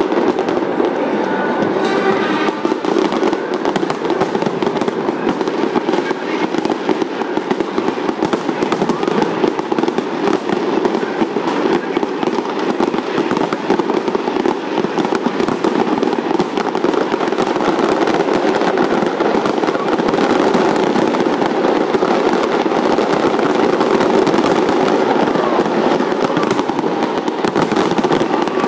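Large fireworks display with a continuous dense barrage of bangs and crackling, and music playing underneath.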